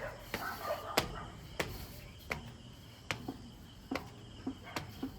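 Footsteps climbing a flight of stairs, one step about every three-quarters of a second.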